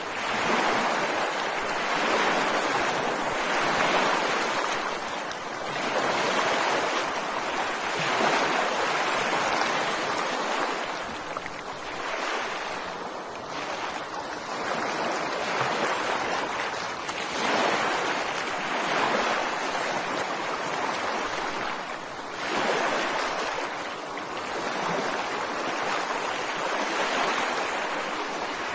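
Ocean waves breaking on a beach, a continuous wash of surf that swells and eases every few seconds.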